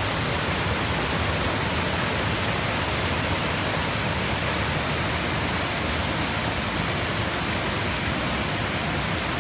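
Waterfall cascades rushing: a steady, even wash of falling water with no breaks.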